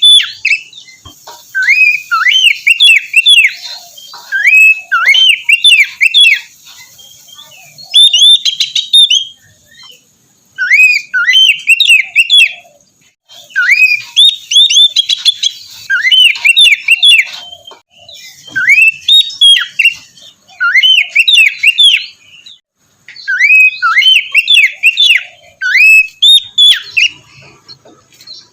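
Oriental magpie-robin (kacer) singing: phrases of quick sweeping notes, each starting with a rising sweep, repeated every couple of seconds with short pauses between phrases.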